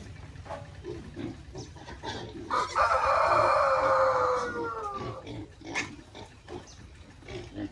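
Pigs grunting, with one long, loud cry starting about two and a half seconds in and falling in pitch as it dies away, some two and a half seconds later.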